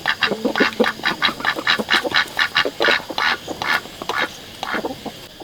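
Ducks quacking: a rapid run of short, repeated quacks that thins out near the end.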